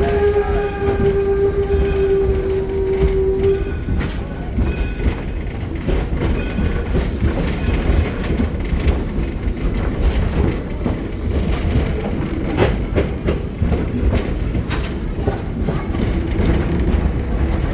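The whistle of the 1897 Detroit and Lima Northern No. 7 steam locomotive blows one long steady note, cutting off about three and a half seconds in. After that come the rumble and clatter of the train rolling on the rails, with scattered wheel clicks.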